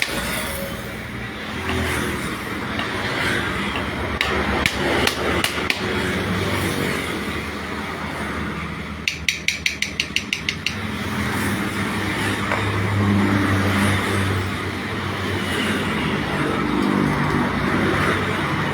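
Workshop noise with a low hum, a few scattered clicks, and about halfway through a quick run of about ten sharp metal taps, like light hammer blows on metal, several a second.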